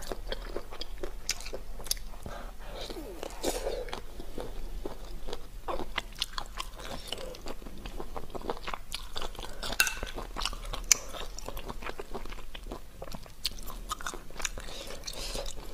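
Close-miked chewing of whole cuttlefish, with the sound of fingers pulling the ink-covered cuttlefish apart. Scattered sharp clicks and crunches run throughout.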